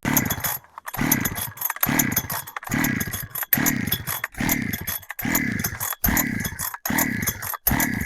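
Husqvarna 372XP clone chainsaw being pull-started, about ten quick pulls on the recoil starter at roughly one a second. Each pull cranks the engine with a whir that winds down, and it never fires: the ignition kill switch is off and the choke is on, so the saw is flooding.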